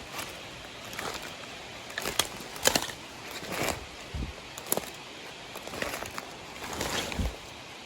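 Footsteps crunching through leaf litter and twigs on a steep forest slope: irregular crackles and snaps, with a couple of heavier, duller steps about four and seven seconds in.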